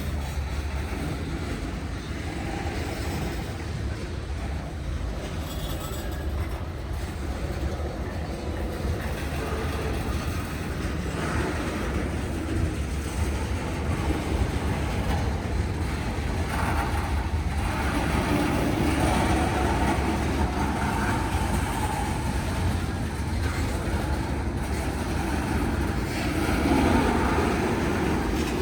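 Norfolk Southern freight train's cars rolling slowly past, a steady rumble and clatter of wheels on the rails that grows a little louder in the second half.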